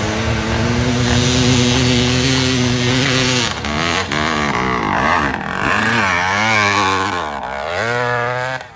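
Vintage motorcycle engine at high revs on a hillclimb run, holding a steady pitch for about three seconds, then rising and falling repeatedly as the throttle is worked. The sound cuts off suddenly near the end.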